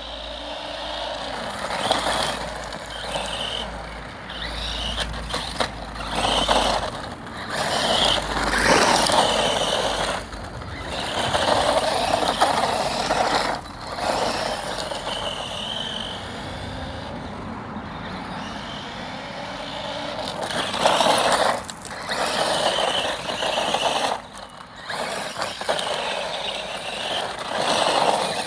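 Electric radio-controlled cars running flat out, a high motor whine rising and falling with the throttle, and repeated louder surges lasting a second or two.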